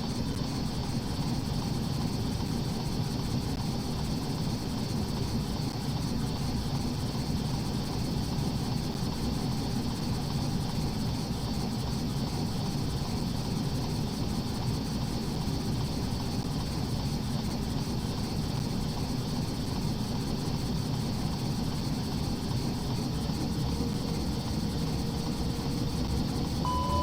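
Steady rumble of an Airbus A330-800 airliner with its Rolls-Royce Trent 7000 engines running, with a few faint steady high tones over it. Near the end a whine rises in pitch and a second steady tone joins it.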